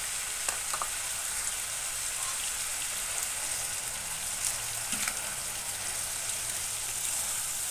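Sizzling in a frying pan as salted mustard greens, chilli paste and dried rebon shrimp fry: a steady high hiss. A few light clicks come from a metal spatula stirring the pan.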